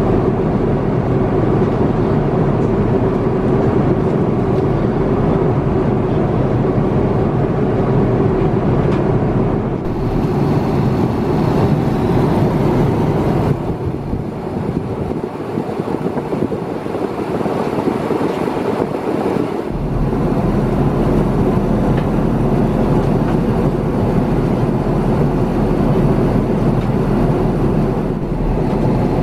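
Steady, loud in-flight cabin noise of an Airbus A350-900 cruising: a constant rush of air and engine noise. Its character shifts abruptly a few times, dropping for several seconds in the middle before returning.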